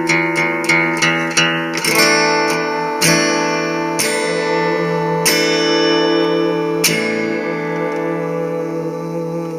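Guitar strummed in quick even strokes, then closing chords struck singly about a second apart, each left to ring and fade out as the song ends.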